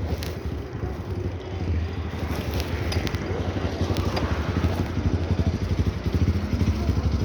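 A steady low engine rumble with a fast, even flutter, running without a break.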